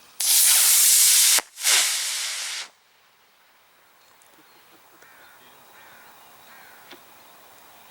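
Model rocket motor igniting and lifting off: a loud rushing hiss that lasts about two and a half seconds, briefly broken near the middle, then dropping away as the rocket climbs.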